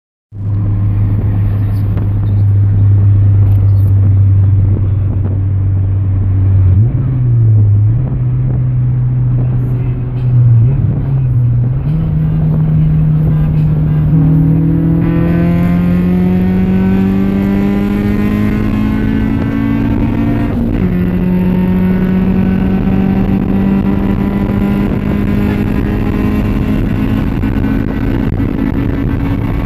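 A car engine under hard acceleration during a race. Its pitch holds steady at first, wavers, then climbs steadily for several seconds, drops sharply at a gear change about two-thirds of the way through, and runs on steady after that.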